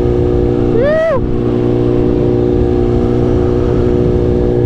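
BMW S1000RR inline-four engine running at a steady, unchanging note while the motorcycle cruises at constant speed. A brief rising-then-falling vocal sound comes about a second in.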